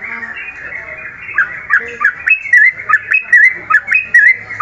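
Songbirds calling: a busy background of overlapping chirps, then from about a second and a half in one bird repeats a loud, quick call, a sharp note followed by a short warbled phrase, over and over at an even pace.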